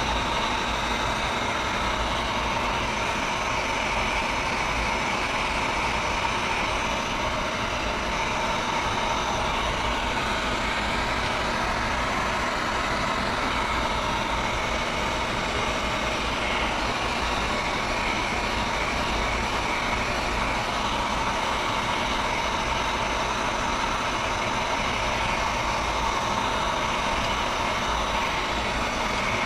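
Heat gun running steadily, its fan blowing with a constant whine, warming a motorcycle tank badge to soften the 3M adhesive tape behind it.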